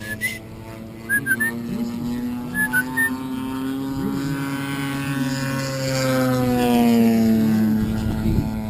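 Radio-control aerobatic model airplane's engine running in flight, its pitch rising and then falling as it passes, loudest late on. A few short high chirps sound in the first three seconds.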